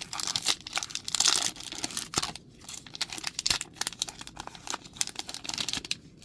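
Magic: The Gathering booster pack wrapper being torn open and crinkled by hand, a dense crackling with many sharp clicks that stops about six seconds in.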